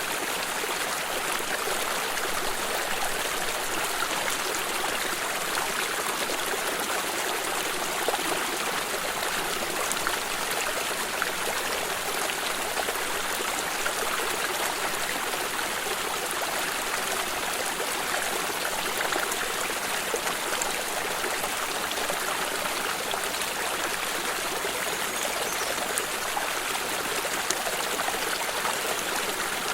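A stream running and trickling, a steady rush of water with small splashes throughout.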